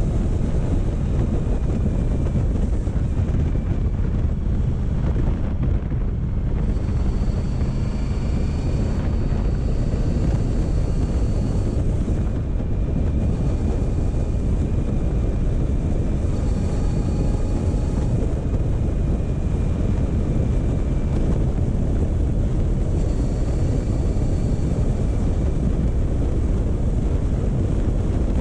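Motorcycle engine running steadily at a slow, even pace, with wind rushing over the microphone.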